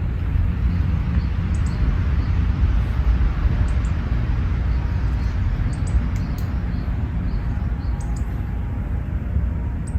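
Outdoor park ambience: a steady low rumble with small birds giving short, high chirps every second or so.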